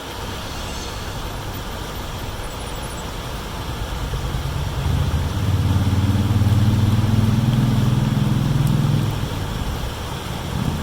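Steady rush of creek water. An engine's low hum rises about four seconds in, holds, and fades out around nine seconds.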